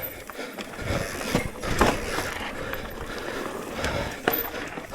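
An electric mountain bike rolling over rough, rocky trail: steady tyre and ground noise with the bike rattling, and several sharp knocks as it hits rocks.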